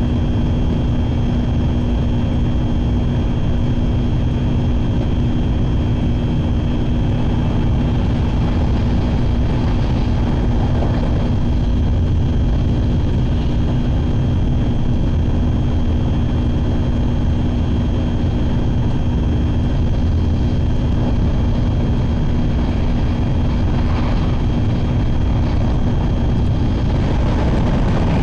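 Shinkansen Sakura train running at speed, heard from inside the passenger cabin: a steady low rumble of wheels and track with a constant electric hum.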